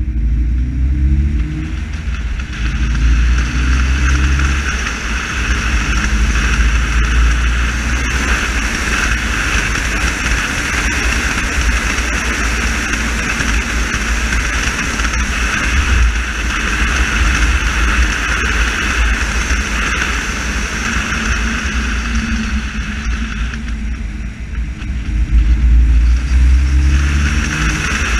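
Car engine pulling hard and climbing in revs through the gears near the start and again near the end, with steadier running in between, over a constant rumble and road noise, heard from inside the car.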